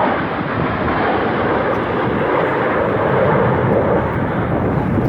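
Airplane engine noise at an air show, a loud steady rush that holds with little change.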